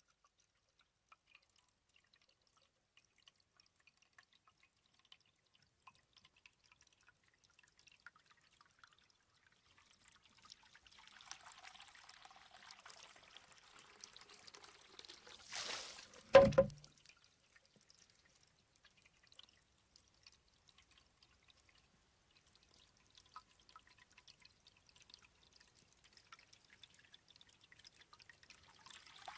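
Bamboo shishi-odoshi cycling: faint drips, then water trickling into the bamboo tube, which tips and spills about halfway through, followed by one sharp knock as the tube strikes its stone. The trickle starts again near the end as the tube refills.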